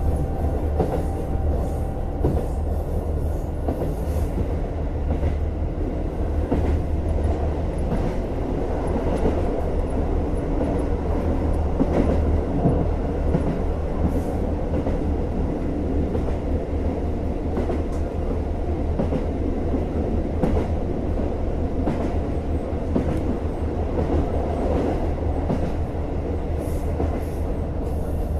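JR Hokkaido KiHa 150 diesel railcar running along the line: a steady low rumble of engine and running gear, with scattered clicks from the wheels.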